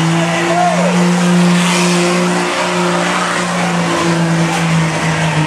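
Diesel pickup truck engine running flat out at a steady high pitch under full load in a sled pull, with a wide hiss of noise over it.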